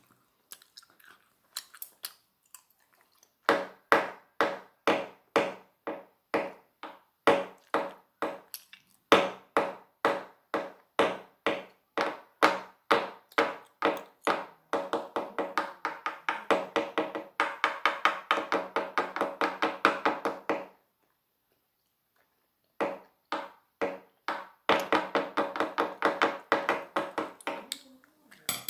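A person chewing food in long rhythmic runs, about two chews a second at first and faster in the middle, broken by a short pause about three-quarters of the way through.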